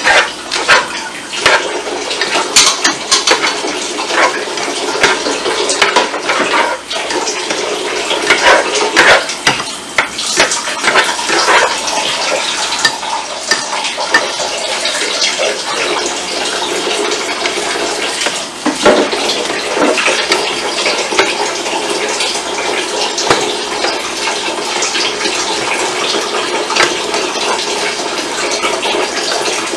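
Eggs and sausage sizzling in oil in a hot skillet, with French toast frying on a griddle, over a steady hiss. A utensil scrapes and clinks against the pan as the eggs are stirred, the clatter thickest in the first half.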